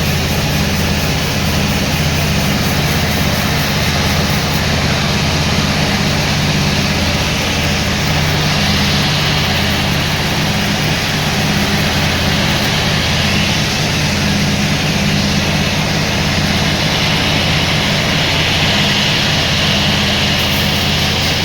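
Sawmill machinery running steadily: a constant low engine drone with a continuous hiss over it.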